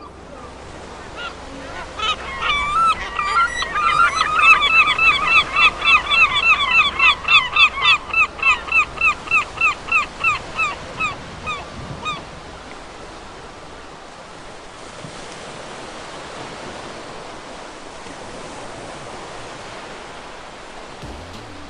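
A flock of geese honking: a dense run of short, repeated honks, about three a second, that builds and then stops about halfway through. After it, a steady rushing noise.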